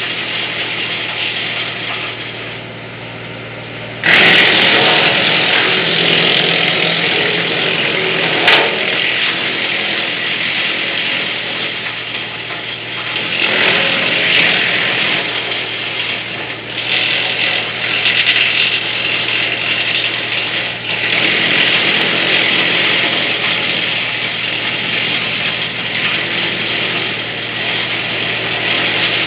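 VKh-42 branch chipper for a mini tractor running with a steady drone and chewing through branches in repeated loud, noisy stretches, the first starting suddenly about four seconds in, with a sharp crack a few seconds later.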